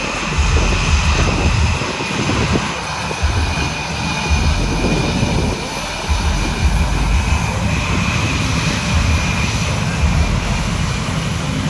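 Blue Angels F/A-18 Super Hornet jet engines running at taxi power: a steady high whine over an uneven low rumble as the jets taxi out for takeoff.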